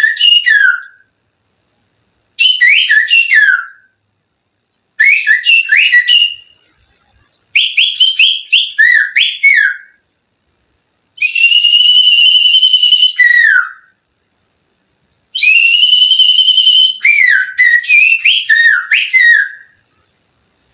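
Finger whistling through the little fingers, imitating a sirtu bird's chirping song: six short phrases of quick chirps that slide up and down in pitch, with pauses between them. The last two phrases open with a longer held, warbling note.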